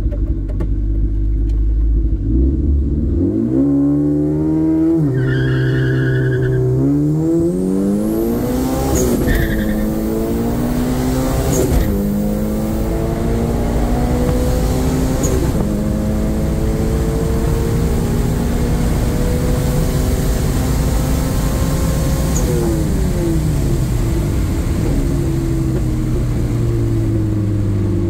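Turbocharged Toyota Corolla XRS 2ZZ-GE four-cylinder accelerating hard from near standstill under full boost, heard from inside the cabin. The engine pitch climbs and drops sharply at each upshift, then rises slowly for a long stretch. It falls away when the driver lifts off near the end.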